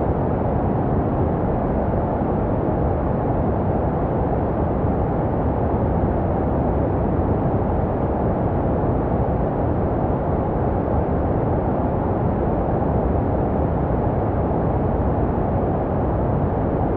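Baby sleep white noise: a steady, even rush with no high hiss, deep and muffled, with no changes or breaks.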